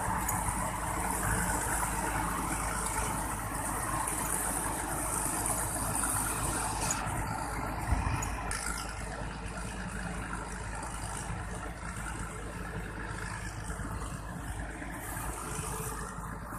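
Rice combine harvester's engine running steadily, with a single knock about eight seconds in.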